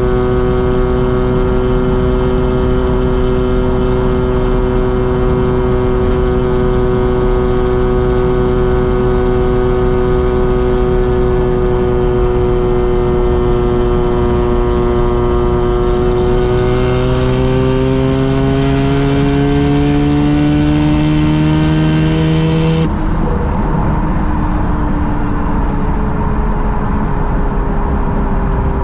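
Mazda RX-7's twin-rotor rotary engine and exhaust, holding a steady cruising drone, then rising in pitch under acceleration for several seconds. Near the end the tone drops off suddenly as the throttle closes, and it carries on at a lower, slowly falling pitch.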